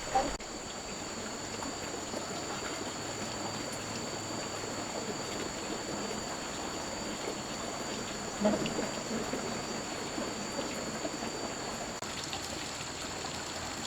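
Insects chirring steadily in two high continuous tones, over a soft, even background hiss, with a brief knock near the start and another about eight seconds in.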